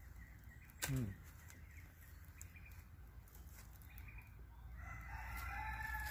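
A bird calling in the distance near the end, one held call of about a second and a half, over quiet outdoor background; about a second in, a brief sharp sound that drops steeply in pitch.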